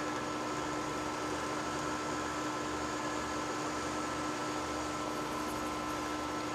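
Metal lathe running steadily, a constant motor and spindle whine over an even mechanical hiss.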